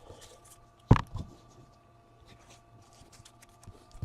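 Trading cards being handled on a table: a sharp knock about a second in and a softer one just after, with faint light ticks and a faint steady hum underneath.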